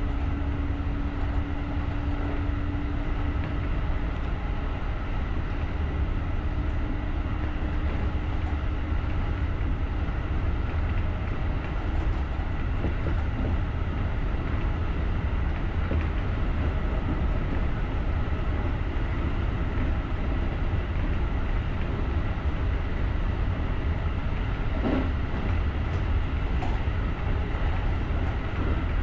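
JR rapid electric commuter train running along the track: a steady low rumble of wheels on rails, with a low hum that fades away over the first ten seconds or so and a few faint clicks.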